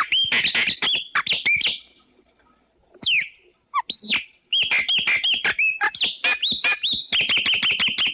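A songbird singing loud, rapid phrases of clear whistled notes, many of them sweeping downward, broken by two short pauses. The song ends in a quick run of evenly repeated notes.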